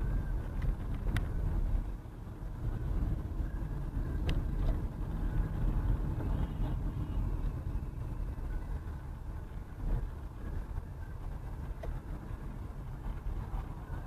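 Steady low rumble of a vehicle driving, as picked up by a dashcam, with a few faint clicks.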